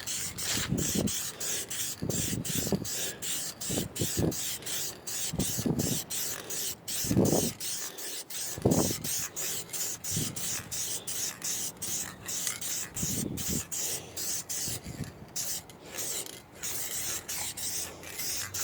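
Aerosol spray can of clear coat hissing as it sprays, broken by many short gaps, with some low bumps now and then.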